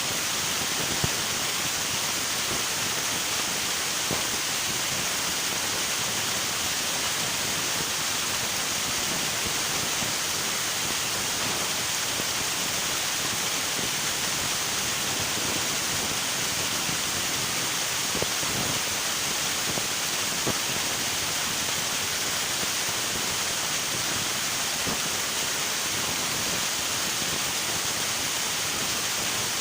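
River water rushing steadily over rocks: a continuous even hiss, with a few faint splashes.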